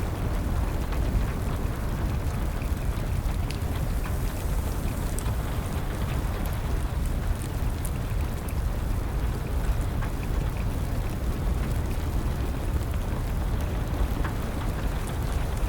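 Steady rain with scattered small pops and crackles from a wood fire.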